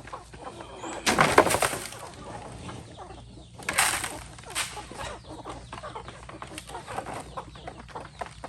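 Chickens clucking faintly amid short bursts of rustling, the loudest about a second in and another near the middle.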